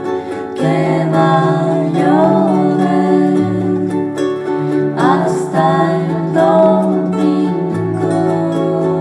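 A song played live on plucked strings, ukulele or guitar, with a steady bass line and a higher melody that slides up and down in pitch above the chords.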